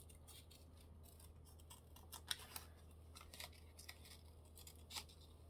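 Scissors snipping paper in quiet, irregular small cuts while fussy-cutting around a printed picture, with the sharpest snips about two seconds in and near the end.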